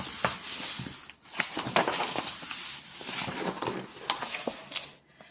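Rustling with many light clicks and knocks as things are handled and moved about, fading out near the end.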